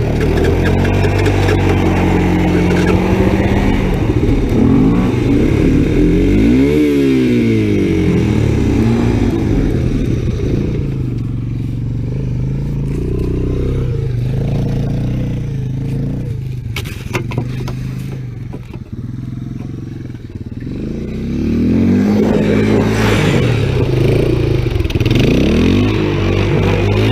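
Honda 250SX three-wheeler's single-cylinder engine running and revving up and down in snow. A little past the middle it drops back, quieter, with a few clicks, then picks up again. The rider suspects it is running out of gas.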